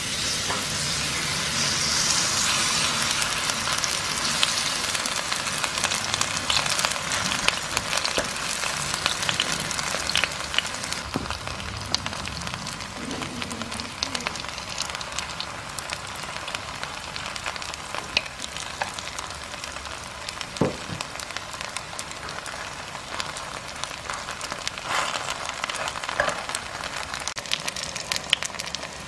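Garlic chive pancake batter sizzling in hot oil in a frying pan. It is loudest just after the batter goes in, then settles to steady frying with scattered sharp crackles.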